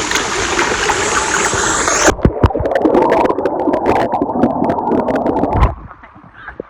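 Loud rushing water of a waterfall, a broad hiss that narrows to a lower rushing sound about two seconds in and falls away sharply near the end.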